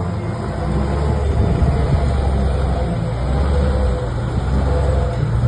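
Engine of a heavy vehicle running steadily with a deep low rumble.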